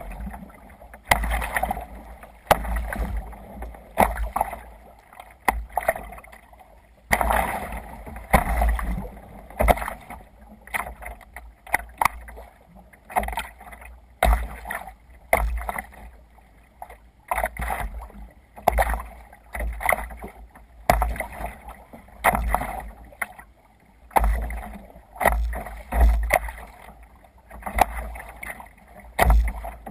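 Water splashing and sloshing around a sea kayak under way, in regular bursts about every second and a half, each with a low thump.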